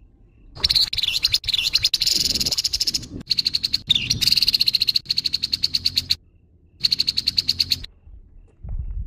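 Grey-headed babbler giving harsh, rapid rattling calls: one long high-pitched rattle of about five seconds, then after a short pause a second rattle of about a second.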